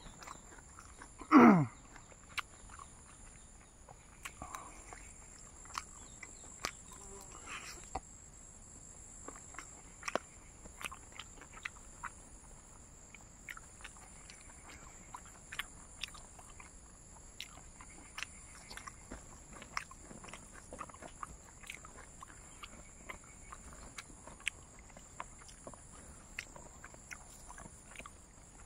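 Close-miked chewing of crunchy dried fried pork: scattered small clicks and crackles from the mouth, with one brief loud sound sliding down in pitch about a second and a half in, over a faint steady high whine.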